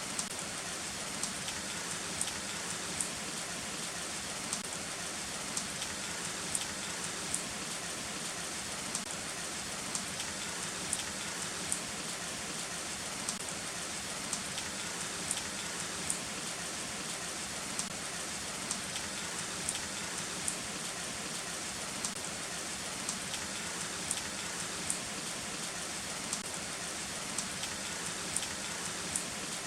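Heavy rain falling steadily, with single drops ticking sharply on a nearby surface about once or twice a second.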